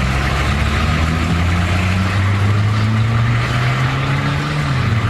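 A car engine running at low revs with a steady low rumble; its pitch edges up slightly early on and drops back a little near the end.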